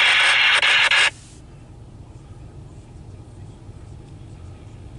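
Scanner radio transmission ending in a burst of hiss that cuts off sharply about a second in as the squelch closes, leaving a faint, steady low rumble.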